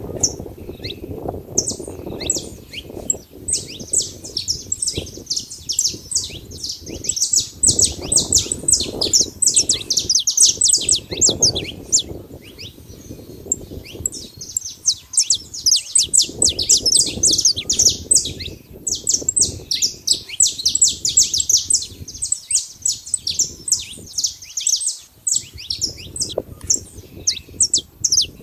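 Saffron finch singing: long runs of rapid, high, down-slurred chirps broken by a few short pauses, over a low rumble.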